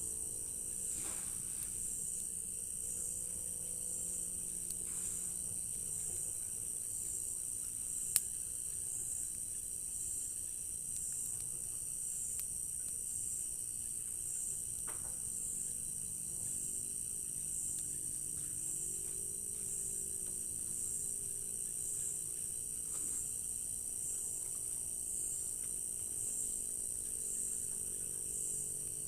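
Crickets chirping in a steady high-pitched chorus with a fast, even pulse. A single sharp click stands out about eight seconds in.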